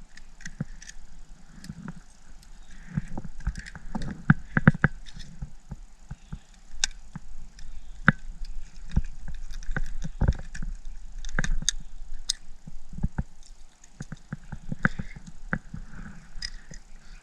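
Irregular sharp clicks and knocks of a fishing reel being cranked and the rod and tackle being handled while a hooked fish is being fought, with some low thumps among them.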